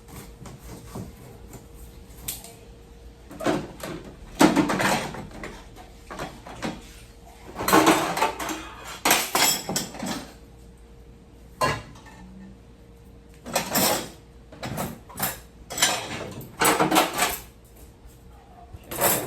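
Plates, cups and cutlery clattering as they are handled and set down, in irregular bursts of clinks and knocks.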